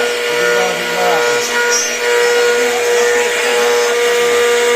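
CNC router spindle running at speed while the bit carves, a steady whine over a constant hiss of cutting.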